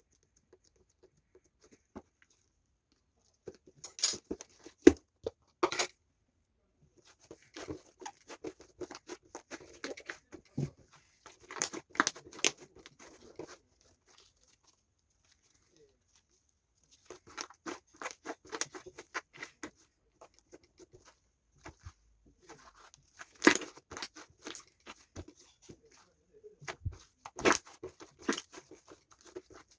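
Fluffy slime being squeezed and poked by hand: bursts of sticky crackling and small popping clicks in irregular clusters with short quiet pauses, and a few sharper snaps.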